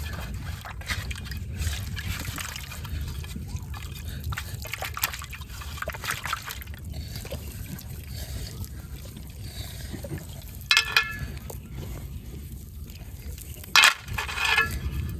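Water sloshing and trickling with irregular splashes, from handling in shallow river water. Two brief, loud, pitched sounds cut in near the end.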